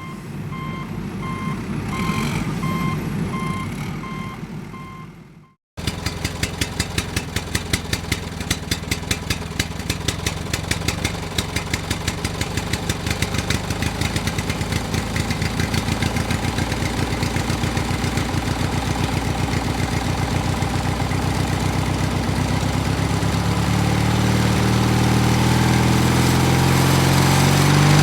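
A small DIY mini tractor engine running. For the first few seconds a pulsing electronic beep sounds over it, then breaks off suddenly. The engine's separate firing beats then quicken until they blur together, and it revs higher near the end.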